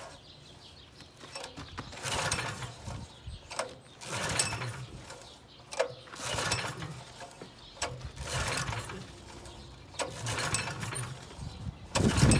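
Small engine's recoil starter being yanked over and over, about six pulls roughly two seconds apart, each with a short burst of cranking. The engine does not catch, a fault the owner puts down to it not getting fuel. The last pull, near the end, is the loudest.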